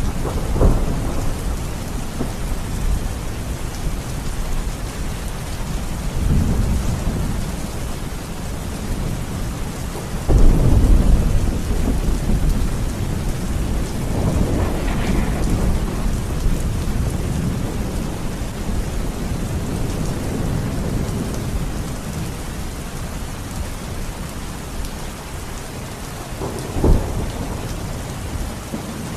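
Steady rain with rolling thunder: several low rumbles, the loudest starting about a third of the way in and rolling on for several seconds, and a short, sharper clap near the end.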